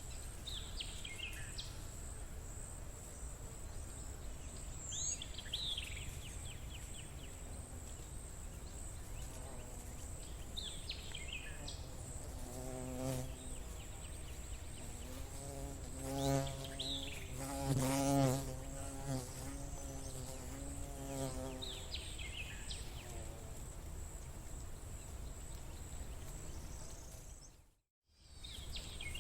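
A flying insect buzzing past, coming in about twelve seconds in, loudest around the middle and fading away a few seconds later. Over a steady outdoor background with a constant high drone, short falling chirps repeat every few seconds, and the sound cuts out briefly near the end.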